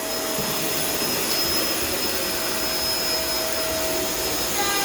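Vacuum cleaner running steadily on the floor, a constant rushing noise with a steady whine.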